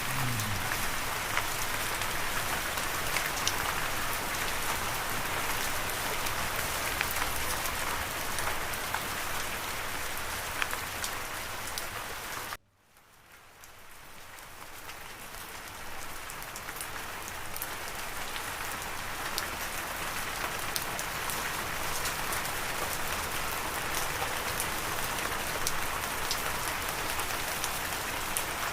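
Steady rain falling on a surface, with individual drops ticking through it. About twelve seconds in it cuts out suddenly, then fades back in over a few seconds.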